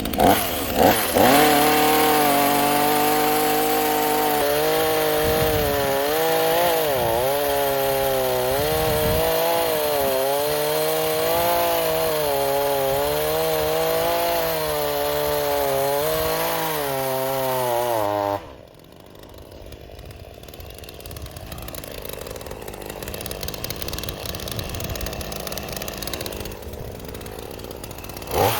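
Gas chainsaw running at high revs while cutting a tree, its pitch dipping and rising repeatedly as the chain loads in the wood. About 18 seconds in it drops suddenly to a much quieter, lower sound that slowly grows louder.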